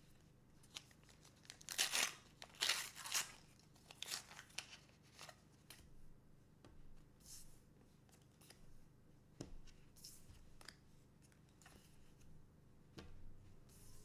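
Foil wrapper of a trading-card booster pack being torn open and crinkled, loudest in a few sharp tearing strokes about two seconds in, then lighter rustling and card handling.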